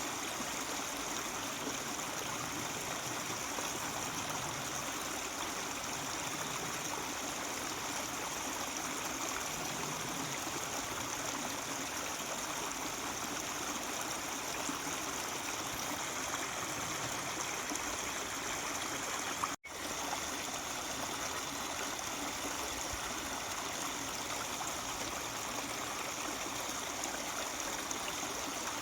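Mountain stream babbling steadily over rocks, an even rush of water. The sound drops out for an instant about two-thirds of the way through.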